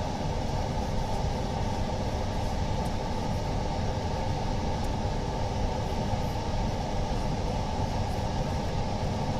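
Steady, even running noise of workshop machinery, strongest in the low range, with no breaks or changes.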